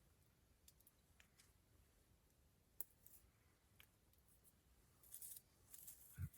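Wood campfire crackling faintly: sparse single pops and clicks, then a brief flurry of hissing crackles near the end. A soft low thump comes right at the end.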